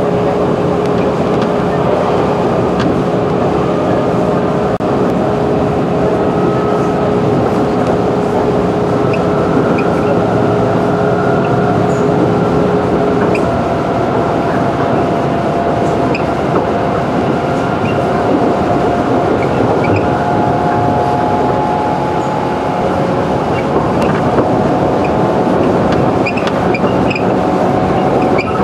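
Running noise of a JR 211 series electric train at speed, heard inside the passenger car: steady wheels-on-rail noise. A low hum cuts off about halfway through, and higher whining tones rise slightly in the second half.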